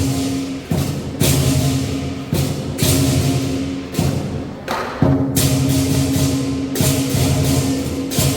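Traditional lion dance percussion: a big drum beating under cymbal crashes that ring on, with about eight loud crash accents coming at uneven spacing.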